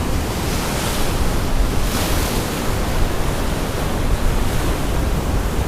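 Heavy storm-driven surf: waves breaking and washing in a steady roar of water, with wind rumbling on the microphone.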